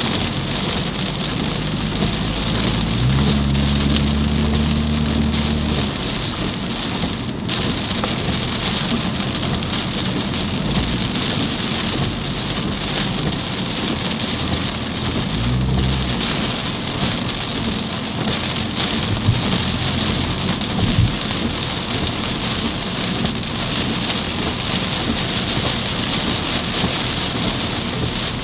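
Heavy rain drumming steadily on a moving car, heard from the car. A low vehicle hum rises under it twice, and there are a couple of brief knocks later on.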